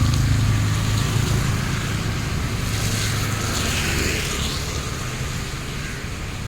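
A road vehicle driving: a steady low rumble with an even hiss over it, easing slightly toward the end.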